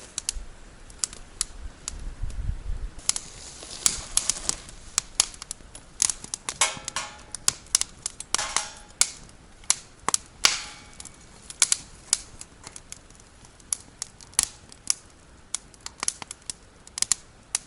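Campfire of burning firewood crackling, with irregular sharp pops and snaps and a few short hissing stretches around the middle.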